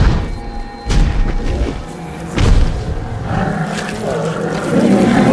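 Three deep booms from a volcano erupting, about a second apart, each trailing off in a low rumble, over a dramatic film score.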